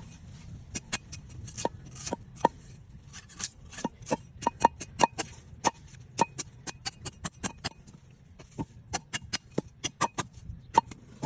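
A knife cutting and striking a coconut's husk while peeling it: a run of sharp, irregular cracks and clicks, several a second, with a few short pauses.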